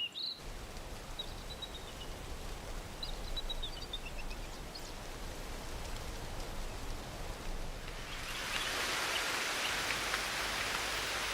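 Rain falling steadily on forest, growing heavier about two thirds of the way through, with a few faint bird chirps in the first half.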